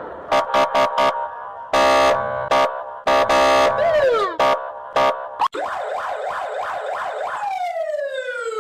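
Emergency vehicle sirens in quick succession: first a run of short and long horn blasts with a siren tone sliding down in pitch, then, after a sudden change about five and a half seconds in, a fast warbling yelp that turns into a slow wail falling in pitch.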